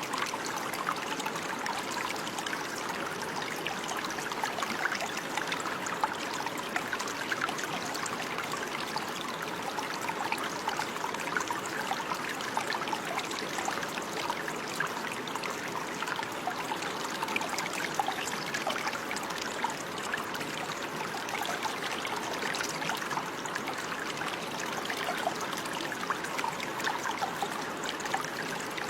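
Water running and trickling steadily over stones, like a small stream, with many small splashes and bubbles.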